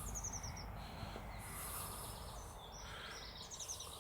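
A small bird singing: a quick run of high chirps, each note dropping in pitch, at the start and again near the end, over a low steady outdoor rumble.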